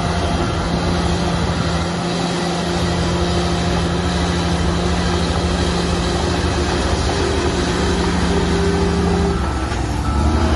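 Heavy diesel earthmoving machinery running steadily under noise, with a constant engine note. Near the end the note drops out briefly and a lower, louder engine sound takes over.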